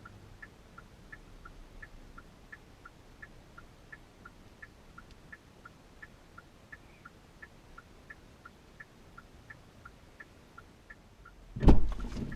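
Car turn-signal indicator ticking, an even tick-tock of alternating higher and lower clicks about three a second. A loud thump comes near the end.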